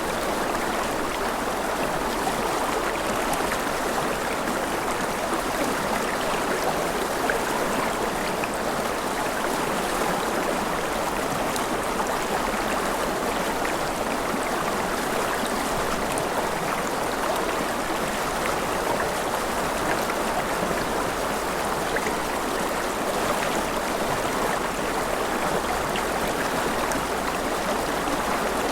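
Mountain river running over rapids: a steady rushing of water, with faint splashes and drips scattered through it.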